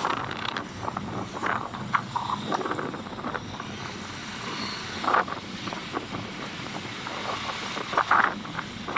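Steady vehicle running noise, with a few short, louder sounds breaking through about a second and a half in, around five seconds in and near the end.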